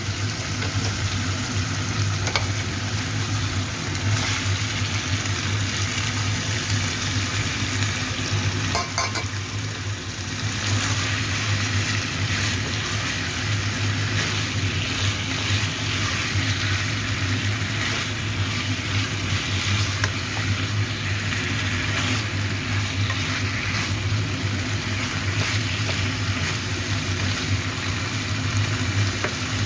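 Food sizzling in a hot pan as it is stir-fried, with a few short clicks from the stirring, over a steady low hum.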